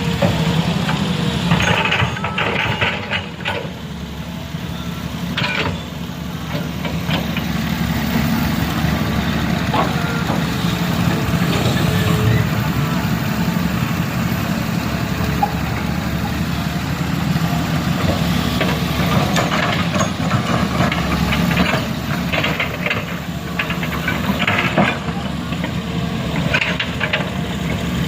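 A heavy vehicle's engine running steadily, with short knocks and clatter scattered over it, most of them near the start and again in the last third.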